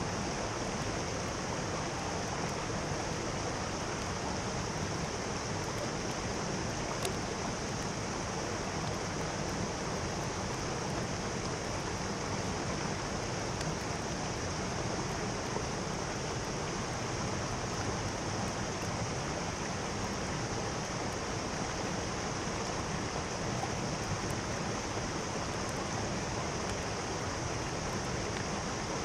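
Mountain stream rushing over rocks with a steady, unbroken flow of water.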